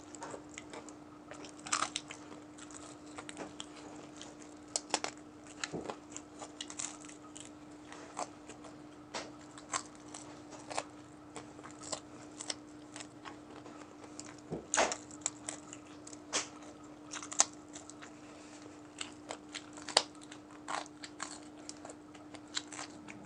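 Close-miked biting and chewing of crispy fried chicken neck: irregular crunches and crackles of the breaded skin and small bones, with a few louder crunches in the second half, over a faint steady hum.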